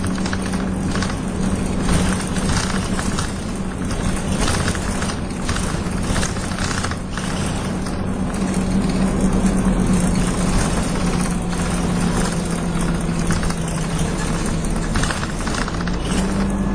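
Dennis Dart SLF single-deck bus engine idling steadily, heard from inside the bus, with loose fittings rattling over the engine note.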